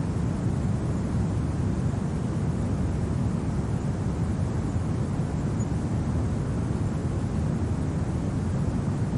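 Steady low rumble of winter wind, even throughout with no gusts or clicks standing out.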